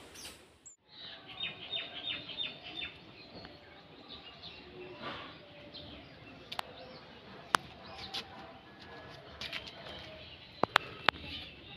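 A small bird chirping: a quick run of short, high, faint chirps in the first few seconds. Scattered sharp clicks follow, and a quick cluster of them near the end is the loudest sound.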